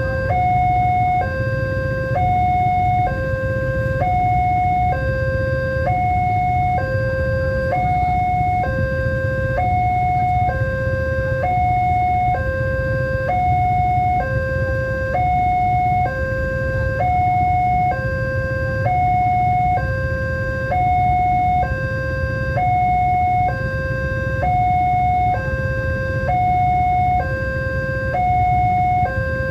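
Railway level-crossing warning alarm sounding continuously: two electronic tones, one lower and one higher, alternating evenly about once a second. A steady low rumble runs underneath.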